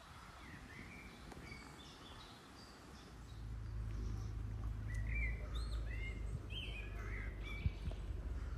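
Small birds chirping, with many short, quick notes. From about three seconds in, a low, steady rumble rises beneath them and becomes the loudest sound.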